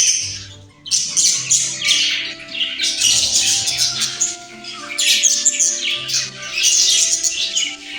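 Budgie chattering and warbling in a dense, scratchy stream of high calls, with a short burst at the start and a brief pause before it resumes about a second in. Soft background music with held notes plays underneath.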